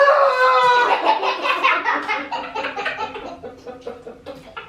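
A young child laughing: a high squeal held for about a second, then a run of giggles that fades away.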